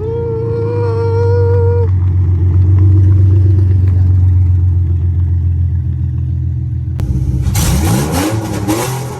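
Nissan VR30 twin-turbo V6 in an Infiniti G37, running with no exhaust fitted: a low engine drone with a steady high whine over it for the first two seconds, then from about seven and a half seconds a sharp rev that rises and falls with loud crackling from the open pipes.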